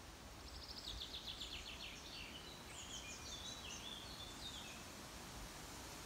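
A songbird sings one song: a fast run of repeated notes, then a string of short whistled notes stepping up and down, ending about four and a half seconds in. Under it, a steady soft hiss of forest ambience.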